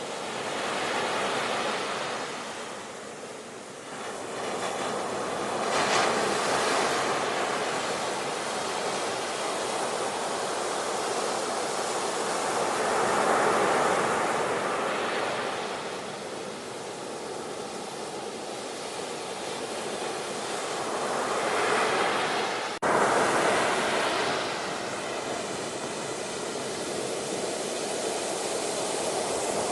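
Ocean surf: waves washing in and drawing back, the rushing noise swelling and fading every several seconds. A sudden break about three-quarters of the way through, where the sound jumps straight to a louder wash.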